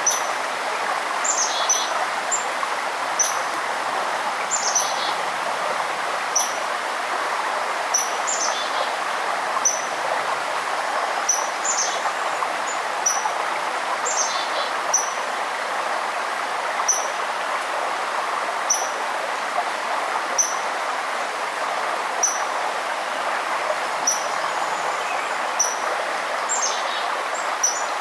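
Steady rush of a forest river running, with a bird repeating a short high chirp about once a second and now and then a falling series of high notes from another bird.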